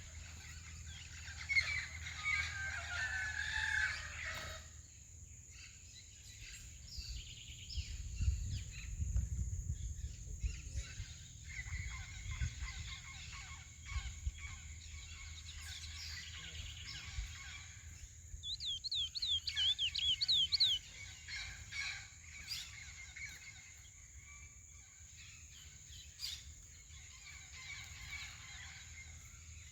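Caged curió (chestnut-bellied seed-finch) singing in short phrases, with a quick run of rising whistled notes about two-thirds of the way through as the loudest part. A steady high hiss lies underneath.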